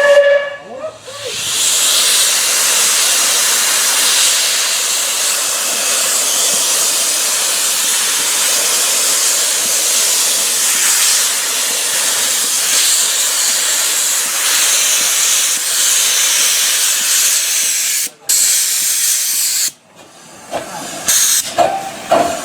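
Steam escaping from a 15-inch-gauge steam locomotive in a steady loud hiss, broken briefly near the end and then cut off abruptly. It opens with a short sharp sound and is followed by a few clanks and knocks.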